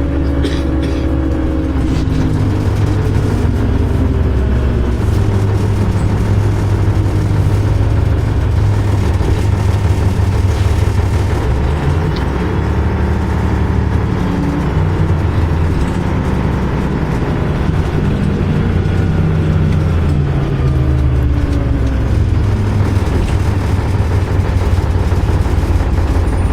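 MAZ-104 city bus's diesel engine heard on board while driving, its note rising and falling several times as the bus speeds up, changes gear and slows in traffic.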